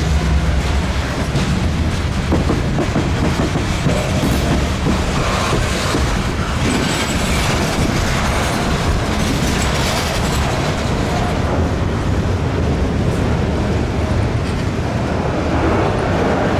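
Freight train cars rolling past, a steady loud rumble of wheels on rail with clickety-clack over the joints.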